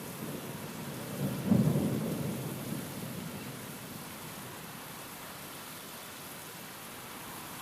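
Steady rain hissing, with a rumble of thunder about a second in that swells quickly and dies away over the next couple of seconds.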